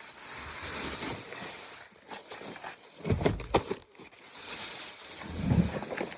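Wind blowing across the microphone: a steady rushing hiss with two heavier low rumbling gusts, one about halfway through and one near the end.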